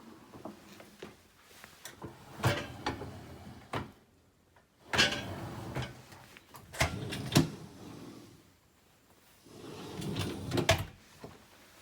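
Bosch free-standing dishwasher being handled: racks or door sliding and knocking. There are four bouts of sliding and clunking, each ending in sharp knocks.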